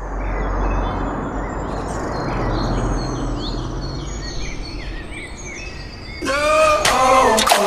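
Small birds chirping over a steady outdoor background hiss. About six seconds in, a louder pitched sound with shifting tones cuts in.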